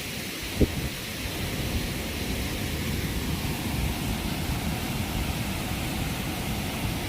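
Steady rush of fast-flowing waterfall water, with a low rumble underneath. A single short knock about half a second in.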